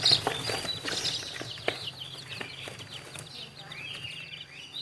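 A brood of young chicks peeping continuously, many short high chirps overlapping, with a few sharp clicks mixed in.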